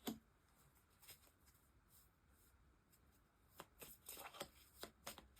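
Faint handling of tarot cards: a short tap at the start, then a run of light card rustles and flicks from about three and a half seconds in.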